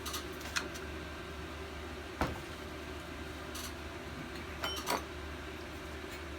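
A few light metal clinks and taps from hand tools and small engine parts being handled, twice near the start, once about two seconds in and a quick pair near the end, over a steady low hum.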